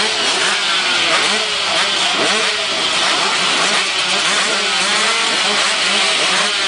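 A pack of motocross bikes revving their engines together, many overlapping engine notes rising and falling at once in a loud, continuous din.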